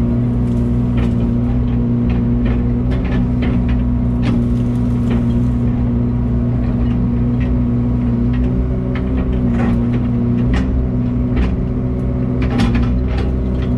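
A vehicle engine running steadily with a constant low drone, with scattered clicks and rattles over it.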